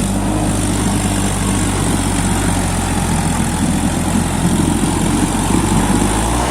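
New Holland 3037 tractor's diesel engine running steadily while hauling a fully loaded stone trolley.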